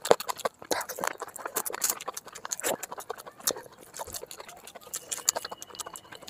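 Close-miked wet chewing and lip-smacking of a full mouthful of chicken biryani, a fast irregular run of clicks and smacks, along with the squish of fingers working through the oily rice.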